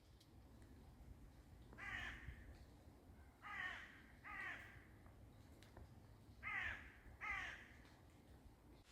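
A crow-like bird cawing five times: one harsh call, then two pairs of calls.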